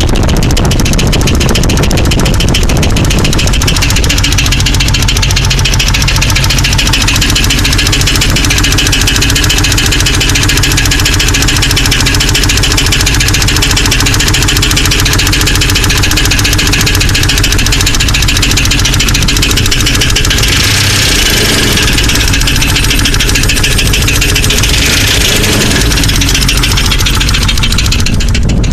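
Jeep 4.0 straight-six engine running with a loud, rapid, steady ticking from the top end. The tick persists even with all new lifters and pushrods, and the owner says it gets louder at higher rpm. The ticking grows brighter for a few seconds about two-thirds of the way through.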